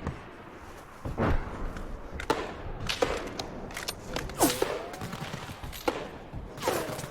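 Battle sound effects from a First World War film: scattered rifle shots and thuds, one about every second, starting about a second in.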